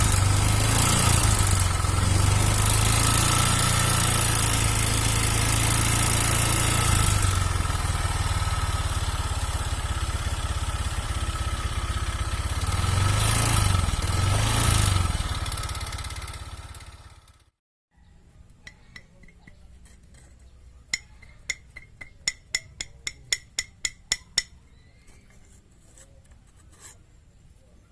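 Honda Vario 125 single-cylinder scooter engine running with a rough sound, blipped twice, then shut off and dying away about 16 seconds in. The roughness comes from a piston worn loose in its cylinder, which also leaves weak compression. Later comes a quick run of about a dozen light clicks.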